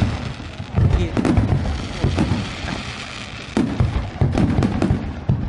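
Fireworks going off in a rapid barrage: repeated bangs with low rumbling echoes, under a continuous crackle.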